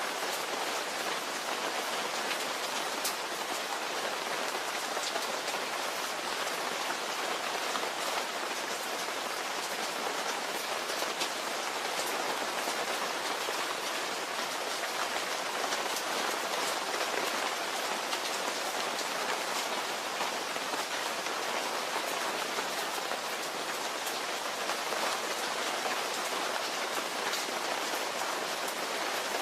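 Steady rain falling, with many fine drop ticks over an even hiss.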